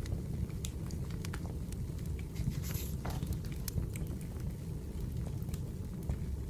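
Wood fire crackling, with scattered sharp pops over a steady low rumble and a brief hiss about three seconds in.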